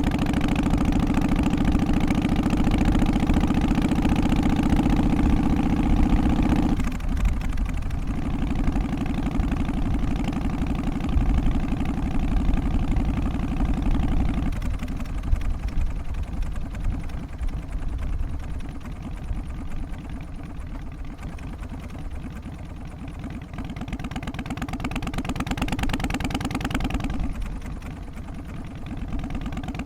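Harley-Davidson FXST Softail's Twin Cam 88 air-cooled V-twin idling with the loping three-beat Harley rhythm. The tone of the engine shifts abruptly three times: about a quarter of the way in, near the middle, and a few seconds before the end.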